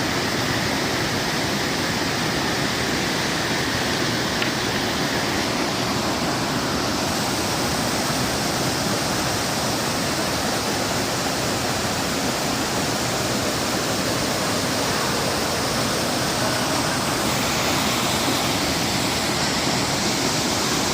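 Small waterfall: falling water making a steady, even rushing noise.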